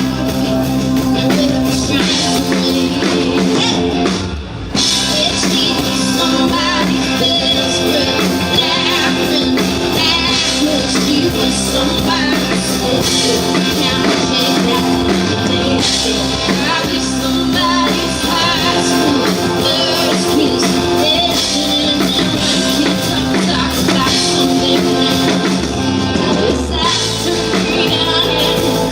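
Live band music with a singer, a rock-style song with drums and guitar, broken by a brief pause about four seconds in.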